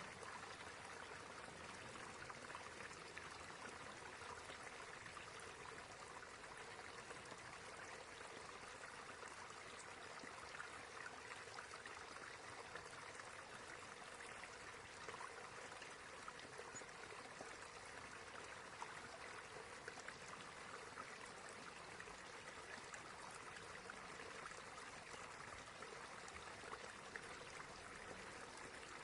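Small stream running: a faint, even rush of water with scattered small splashes.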